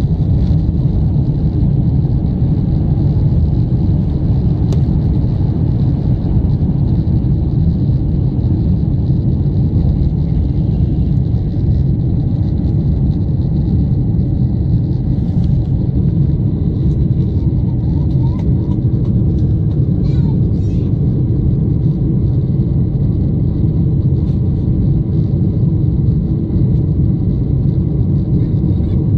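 Steady low rumble of a Boeing 747's jet engines heard inside the passenger cabin, with faint steady whines in the background.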